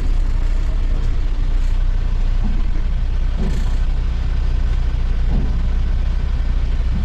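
Western Star dump truck's diesel engine running steadily, a constant low drone.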